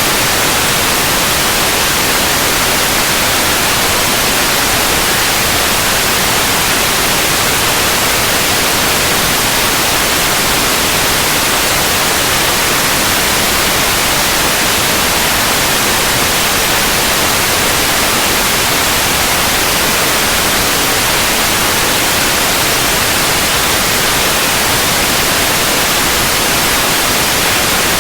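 Steady, unchanging white noise: an even hiss spread across the whole range, brightest in the high end.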